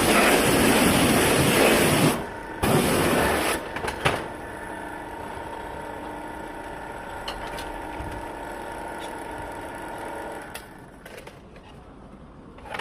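A loud rushing machine noise cuts off about two seconds in and comes back briefly. It gives way to a steady motor hum with a fixed whine, which drops quieter near the end.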